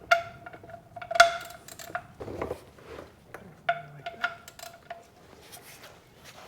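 Steel socket and ratchet clinking against metal while the oil drain plug is backed out: three sharp knocks, each ringing briefly with a clear metallic tone, and smaller clicks and a short scrape between them.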